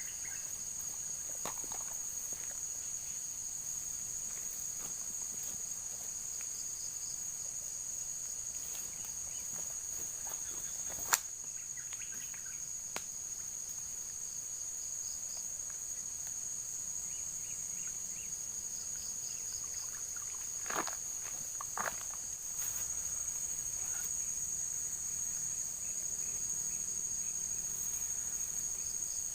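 Steady, high-pitched chirring of an insect chorus, with a sharp click about a third of the way in and a couple of faint knocks later on.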